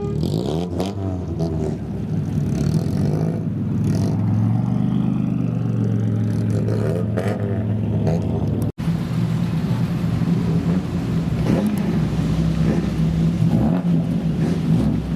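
Customised old cars (kaido racer style) running and revving their engines as they drive by, the engine notes rising and falling in short blips. The sound cuts out for a split second about two-thirds of the way through.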